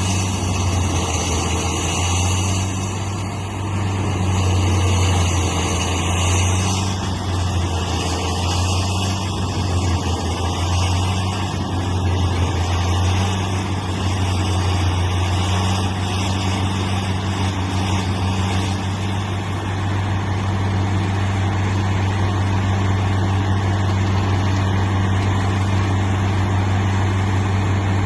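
Engine of a self-propelled forestry wood chipper running steadily at constant speed, a strong low hum under a broad mechanical noise. About six and a half seconds in, the higher part of the noise changes character.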